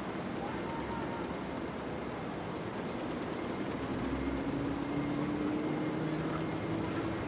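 Steady rumble with an engine drone that comes in about four seconds in, slowly rising in pitch and growing a little louder.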